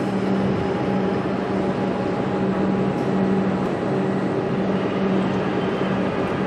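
Train noise at the trackside: a steady rumble with a low hum that swells and fades about once a second.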